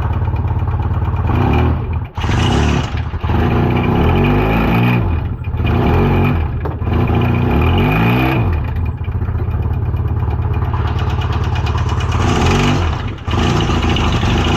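Polaris RZR's freshly rebuilt engine running and blipped about four times in short revs. It is running poorly, which the owner takes for rod bearings seizing to the crank after a loss of oil pressure, and he holds back from revving it out.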